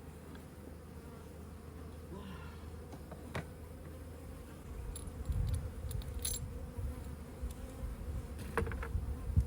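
Many honeybees buzzing in a steady hum, stirred up by the broken feeder and spilled sugar water. A few sharp clicks and clinks come about three seconds in and near the end, over a low rumble from about halfway.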